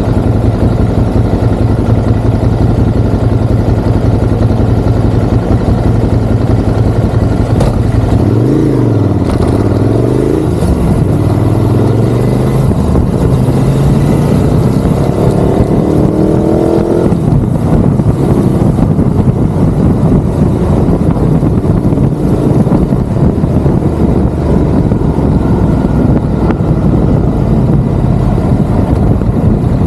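Ducati Monster's L-twin engine running on the move. The revs dip and climb again about eight seconds in, and climb once more around fifteen seconds before dropping off suddenly.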